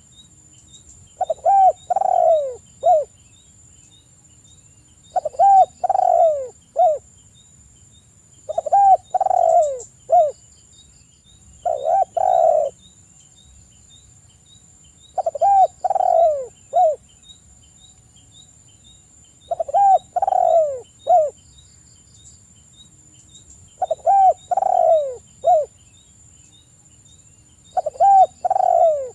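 Spotted dove (tekukur) cooing: a phrase of three or four low coo notes, repeated about every three to four seconds, eight times. A faint steady high whine and soft regular ticking run underneath.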